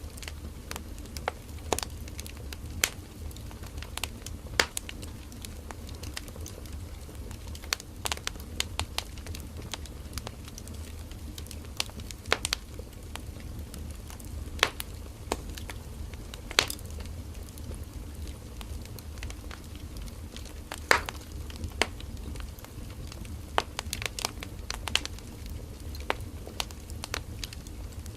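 Firewood burning in an open wood fire: irregular sharp crackles and pops, a few every second with some louder snaps, over a steady low rumble of the flames.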